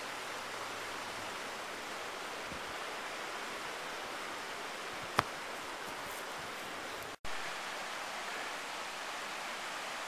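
Steady outdoor rushing noise, even and without pitch. A single sharp click about five seconds in, and the sound drops out for an instant a little after seven seconds.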